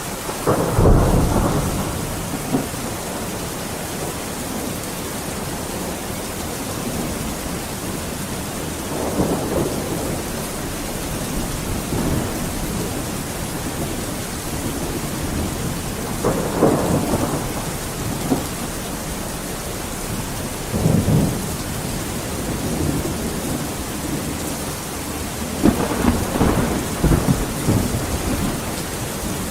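Steady heavy rain hissing, with thunder rumbling several times: a strong roll about a second in, then softer rumbles around 9, 17 and 21 seconds and a longer rumbling stretch near the end.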